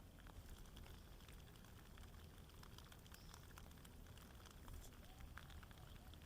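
Faint outdoor nature ambience: scattered light ticks and patter over a low, steady rumble.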